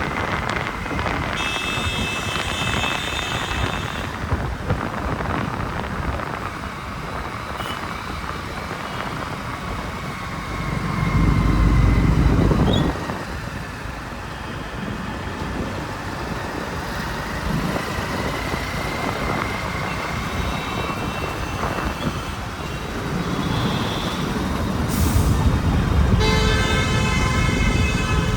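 Road noise and city traffic heard from a moving motorbike, with vehicle horns honking about two seconds in and again near the end. A loud low rumble swells briefly about 11 seconds in, as of a heavy vehicle passing close by.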